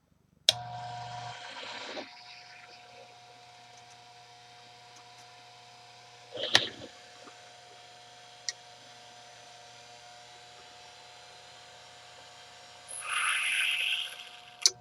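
Electric grinder motor switched on about half a second in and running with a steady hum while a lathe tool bit is sharpened; a brief grind about six and a half seconds in and a longer grinding rasp near the end.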